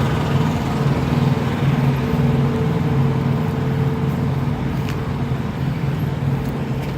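Diesel truck engines idling with a steady low hum.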